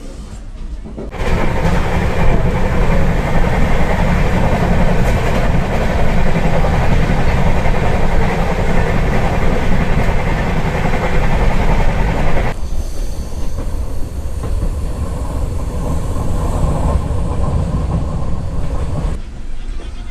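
Passenger train running on the line: a loud rumble and clatter of wheels on rails. It starts abruptly about a second in and drops in level about two-thirds of the way through.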